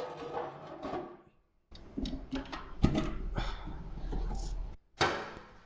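Clicks and knocks of metal wood-stove parts being handled, over a low rumble, after the last of a plucked-string music cue fades out.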